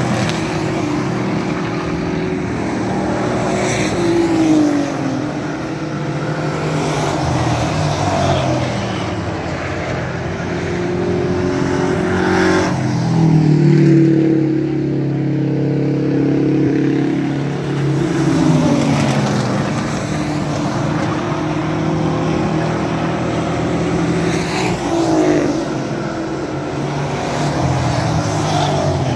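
Race trucks' engines at racing speed going past again and again, each one dropping in pitch as it goes by. A bunched pack comes through loudest about halfway in.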